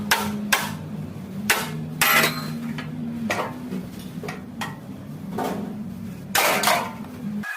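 Hammer blows on steel sheet metal at an irregular pace, about a dozen strikes, ringing briefly. This is hand panel-beating to straighten a crumpled pickup bed. A steady low hum runs underneath and stops just before the end.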